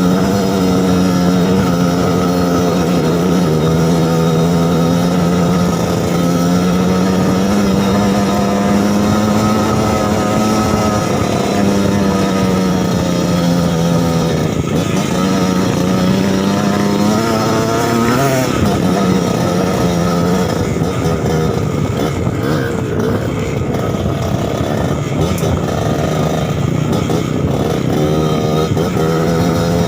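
Suzuki TS 125 single-cylinder two-stroke trail bike engine running under way, its pitch rising and falling gently as the throttle changes, with a quick shift in pitch a little past halfway.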